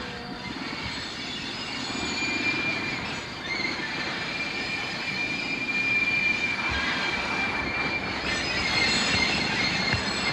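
Freight train rolling along the rails, with a steady, high-pitched wheel squeal held for several seconds in the middle. The rumble grows louder toward the end.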